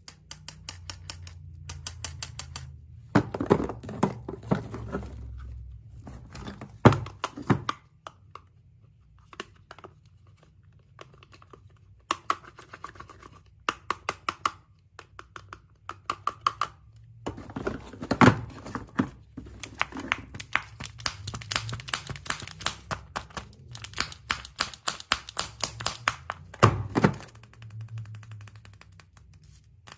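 Hands unboxing surprise-egg toys and packaging: rapid runs of clicks and taps on plastic, several louder knocks, and crinkling wrap. The handling goes quiet for a few seconds about a third of the way in.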